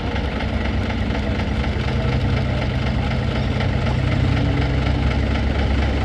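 Engines of antique trucks crawling at low throttle, a steady low drone that grows slowly louder, with a deeper steady engine note coming in about two seconds in.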